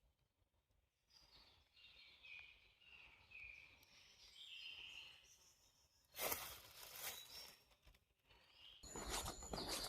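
Faint bird song of short, high whistled notes, with a brief rustle a little past halfway. About a second before the end, footsteps on the trail begin.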